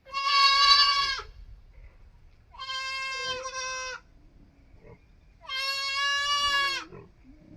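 Goat kid bleating: three long, high, steady calls about every two and a half seconds, the first the loudest.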